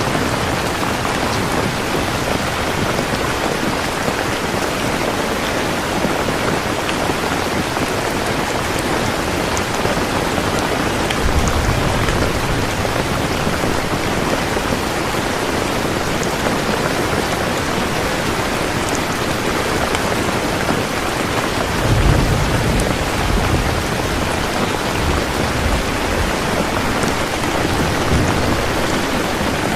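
Steady rain falling, with two low rumbles of thunder, about eleven seconds and twenty-two seconds in.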